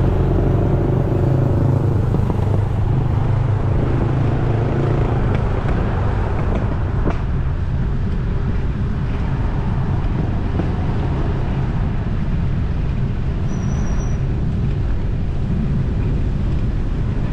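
Street traffic: a motor vehicle's engine hums close by for the first few seconds, then fades into steady road noise.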